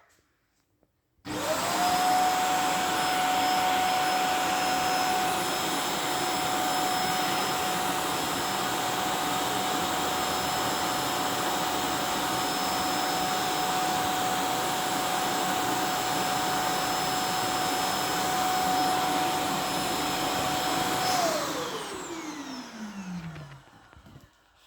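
A household appliance's electric motor and fan switch on abruptly and run steadily with a high whine and rushing air for about twenty seconds. Then it is switched off, and the whine falls in pitch as the motor spins down.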